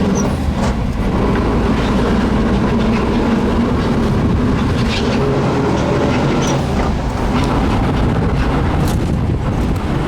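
Volkswagen Type 2 bus driving, heard from inside the cab: the engine and drivetrain make a steady drone, with scattered short clicks and rattles. The transaxle is failing, and the owner believes its main bearing has gone.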